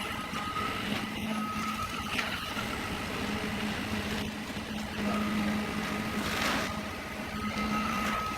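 An engine runs steadily with a low hum. A higher whine comes and goes over it, present early and again from about five seconds in.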